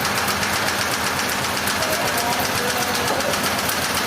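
Engine running steadily, with a fast, even clatter and no change in speed.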